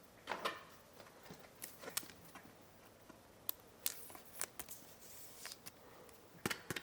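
Faint rustling and scattered soft clicks of a Pokémon card being slid into a plastic sleeve and toploader, with a short rustle near the start and a few sharper clicks near the end.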